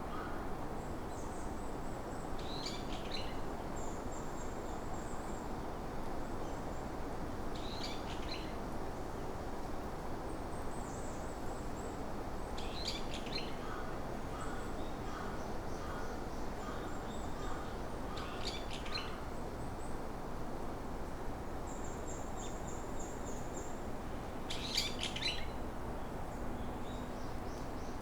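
Forest birds singing and calling: short chirping phrases every few seconds, thin high trills, and a run of repeated lower notes partway through, over a steady background hiss.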